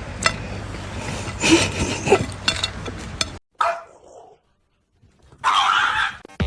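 A pet animal's short cries and yelps among clicks and handling noise, broken by sudden cuts, with a gap of silence and then a short noisy burst near the end.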